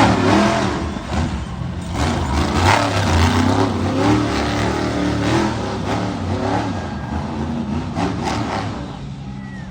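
Monster truck engine revving hard, its pitch rising and falling again and again, with a few sharp cracks or knocks along the way. It eases off somewhat near the end.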